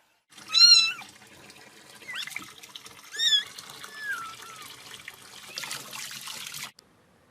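Water running from a tap into a sink, with a cat's short high mews about half a second in and again around three seconds in, and a few fainter chirps between. The running water cuts off suddenly near the end.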